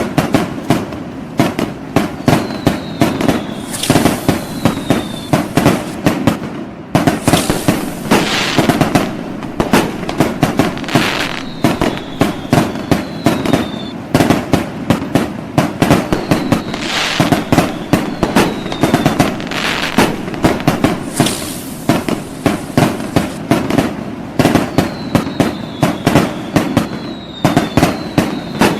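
Fireworks going off without pause: rapid, overlapping bangs and pops with bursts of crackling every few seconds, and now and then a short falling whistle.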